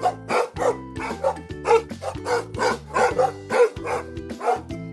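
Rottweiler barking repeatedly, a run of short barks about three a second, over background music.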